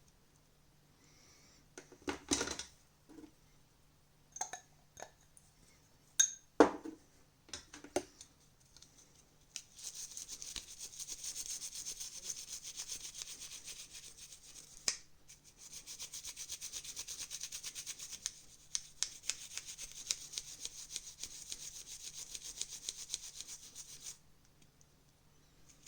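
Rapid, even scrubbing on the parts of an opened TV remote during cleaning: about fifteen seconds of fast back-and-forth strokes with a short break midway. Before it come a few scattered clicks and knocks of parts being handled.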